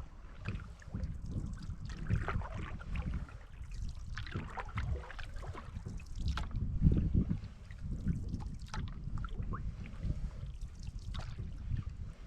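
Water splashing and lapping around a canoe, in short irregular splashes, with wind buffeting the microphone as a constant low rumble.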